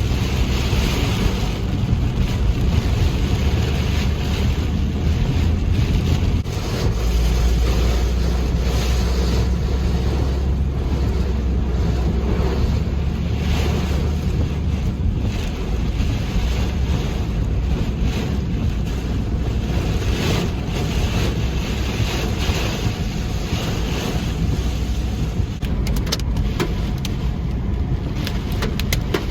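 Steady, loud wind and heavy rain on a moving vehicle, with a deep low rumble underneath that grows stronger about a quarter of the way in.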